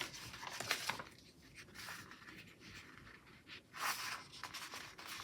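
Paper stickers being peeled from their sheet and pressed onto a planner page: faint, scattered rustling and peeling, loudest about four seconds in.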